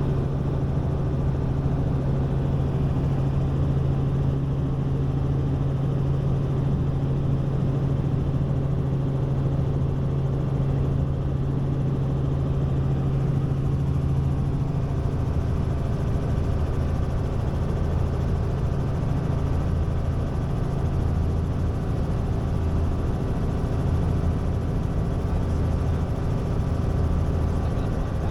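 Robinson R44 Raven I helicopter in flight: the steady drone of its six-cylinder Lycoming piston engine and rotor, with a low rhythmic throb underneath. A strong steady hum weakens about halfway through.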